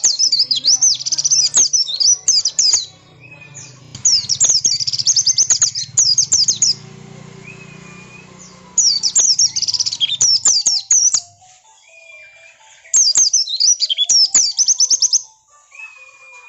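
White-eye (pleci) singing an agitated, fast twittering song: four loud bursts of about two to three seconds each, separated by short pauses. It is the kind of aggressive song used to provoke other white-eyes into answering.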